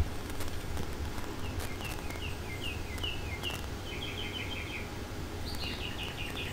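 A small songbird singing: a string of short, high, downward-slurred chirps about two a second, then two quick trills near the end, over a steady low hum.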